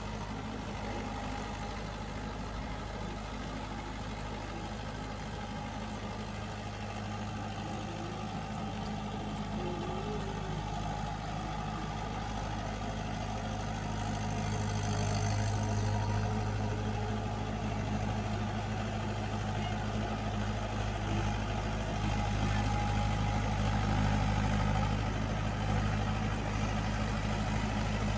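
Tractor engine running steadily with a low, even hum, growing a little louder from about halfway.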